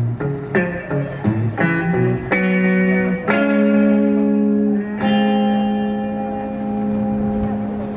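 Guitar playing the closing bars of a song: a run of plucked notes and chords, then a final chord struck about five seconds in and left to ring.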